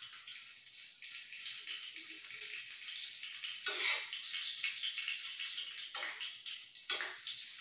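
Whole green chillies frying in hot oil in a pan: a steady sizzle with sharp pops of spattering oil about four, six and seven seconds in.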